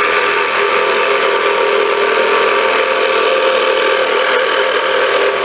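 A power tool's electric motor running loud and steady at one unchanging pitch.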